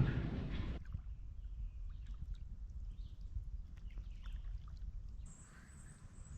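Canoe paddling on a lake: a loud water splash that cuts off within the first second, then small drips, light taps and water sounds over a low rumble. About five seconds in a thin, high, steady tone comes in.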